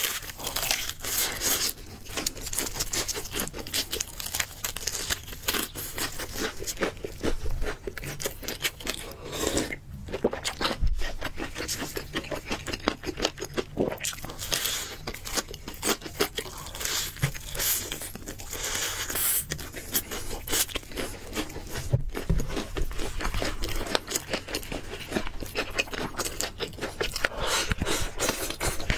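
Close-miked crunching and chewing of crispy breaded fried chicken, the bites cracking through the fried coating in a dense run of crunches.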